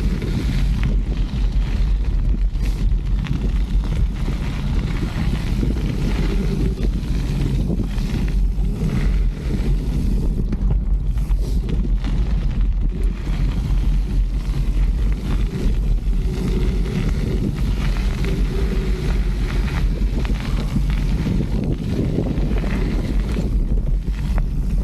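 Mountain bike riding on a trail: wind buffeting the microphone over a steady low rumble of tyres on dirt, with scattered knocks and rattles.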